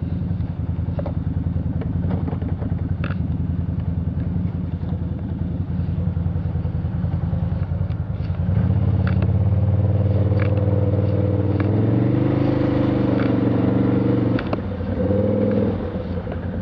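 Small off-road vehicle's engine running steadily, then revved harder about halfway through, its pitch climbing. It eases off near the end and is briefly revved again, with scattered light clicks and clatter throughout.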